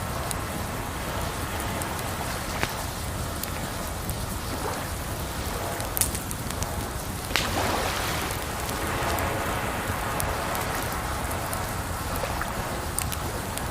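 Wood fire crackling, with a few sharp pops scattered through it, the loudest two about six and seven and a half seconds in, over a steady rush of running water.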